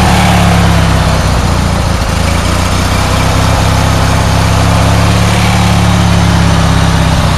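Newly fitted large engine of a riding lawn mower running steadily with its air cleaner on, a little smoky just after starting.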